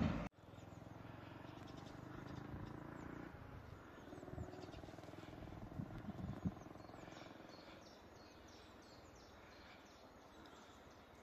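A loud sound cuts off abruptly at the very start, leaving a faint low rumble with a few soft knocks. From about seven seconds in, small birds chirp repeatedly in short, high, falling notes.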